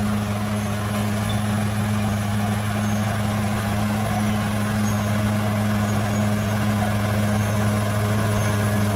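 Bulldozer's diesel engine running steadily with an unchanging low drone.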